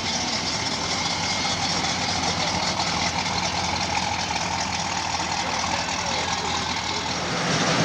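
Car engine running steadily under a dense, even hiss.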